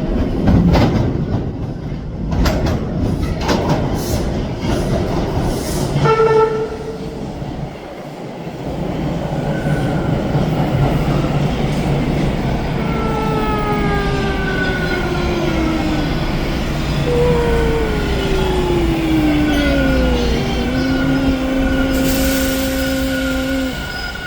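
TTC T1 subway train pulling into the station. It begins with a loud rumble and wheel clatter over the rail joints. Then its traction motors whine, falling in pitch as it brakes, and settle into a steady hum as it stops. A hiss comes in near the end.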